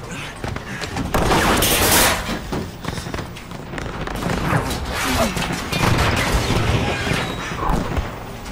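Film battle sound effects from a B-17 air-combat scene. A loud blast comes about a second in, followed by rattling gunfire and booms, with voices mixed in.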